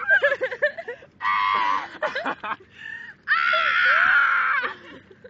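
A person screaming: two long, loud, high-pitched screams, the second longer, after a jumble of excited shrieks.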